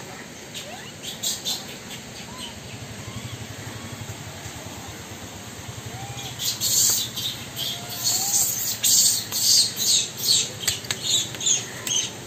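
Birds chirping: a few faint short whistled calls at first, then from about halfway through a loud run of sharp, high chirps several times a second.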